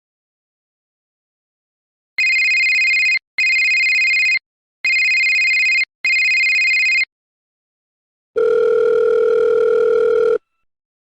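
Electronic telephone tones: four high beeps of about a second each in quick succession, then a lower, longer tone lasting about two seconds, the sound of a phone call being placed.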